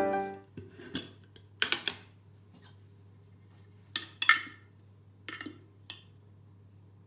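A few scattered clinks and knocks of kitchen dishes and utensils being handled, over a faint low steady hum.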